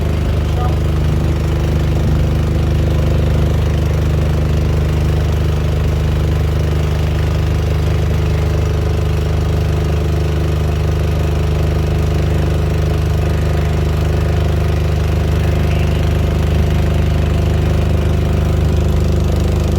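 A motorboat's engine running steadily at an even speed, heard from on board.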